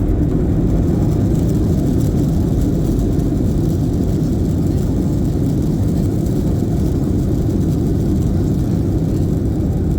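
Steady low rumble of an Airbus A320's engines and airflow heard inside the passenger cabin, with no sudden changes.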